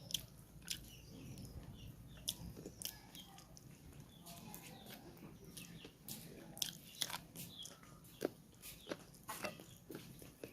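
Close-up eating sounds of chicken curry and rice: chewing and biting, with many short, irregular mouth clicks and smacks.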